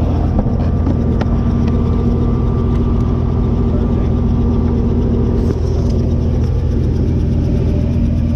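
Helicopter engine and rotor running steadily and loudly, a constant mechanical drone.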